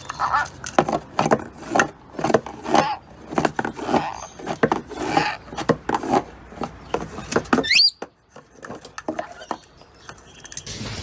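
Pet birds making rapid squawks, chirps and clicks in quick succession, with a quick rising whistle just before the eighth second, after which the calls are quieter.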